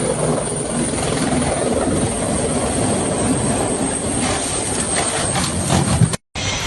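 Helicopter running at close range, a steady rotor and engine noise. About four seconds in, a run of clattering knocks joins it, loudest just before the sound cuts off abruptly.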